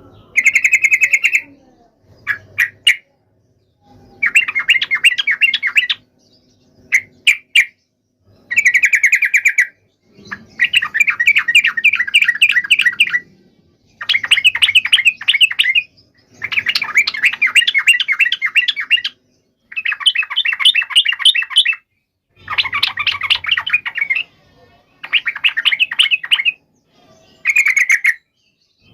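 Yellow-vented bulbul (trucukan) song: about a dozen loud phrases of rapid, bubbly chattering notes, each a second to three seconds long, broken by short pauses.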